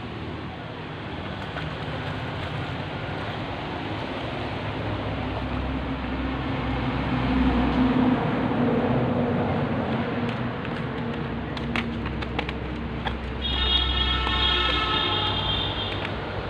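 A motor vehicle's rumble swells to a peak about halfway through and fades. Near the end a horn sounds steadily for about two seconds.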